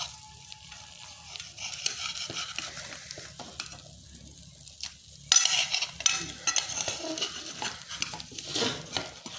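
Eggs and vegetables frying in oil in a pan, sizzling, with a utensil stirring and scraping against the pan. The sizzle gets suddenly louder about five seconds in.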